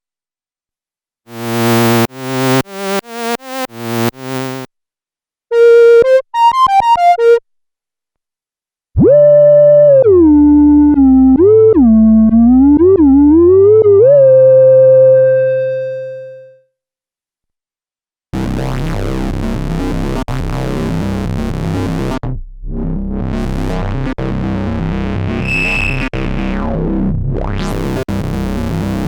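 Korg monologue monophonic analog synthesizer playing through several factory presets, heard direct from its output: first a run of about eight plucked notes that each die away, then a few short staccato notes, then a sustained lead line gliding up and down between pitches that fades out. After a pause, a dense buzzing sequenced pattern sets in, its tone sweeping dark and back to bright twice.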